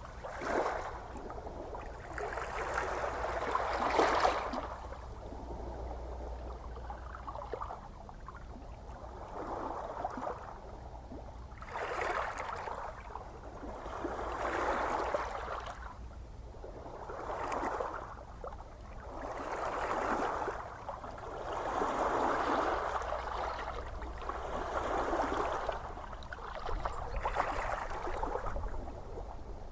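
Gentle ocean waves washing and lapping, the wash swelling and fading every two to three seconds over a steady low rumble.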